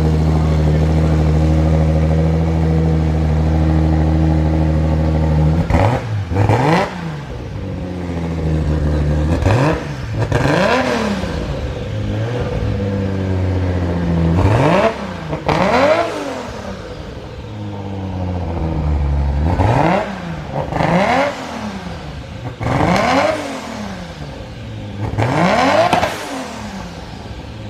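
Turbocharged 2JZ straight-six in an RX-7 idling steadily through a freshly fitted custom R34 GT-R exhaust. From about six seconds in it is blipped in a series of about six short revs, each rising and falling in pitch. The exhaust note is loud: "that ain't quiet".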